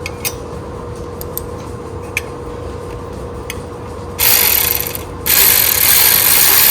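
Ratchet wrench being cranked rapidly to tighten the bolts holding a bracket under a small engine: a few loose clicks, then two fast spells of dense ratcheting about four seconds in, a short one and then a longer one.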